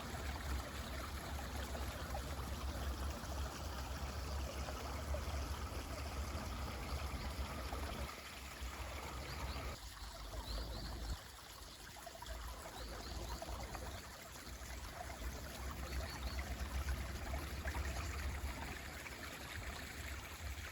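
Mountain stream running, an even rush of water with a low rumble that turns softer for a few seconds around the middle. A few faint, short, high bird chirps come in around the middle.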